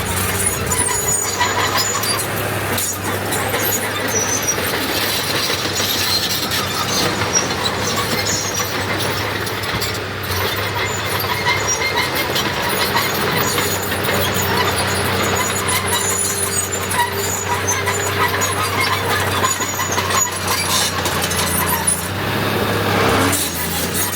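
Heavy diesel earthmoving machinery working, its engine running steadily, with many short high-pitched squeals and squeaks over it.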